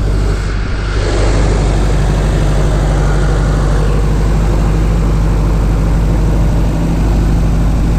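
Toyota 22RE four-cylinder engine, a stage 2 rebuild, idling steadily and noisy while still a little cold; it gets a little louder about a second in.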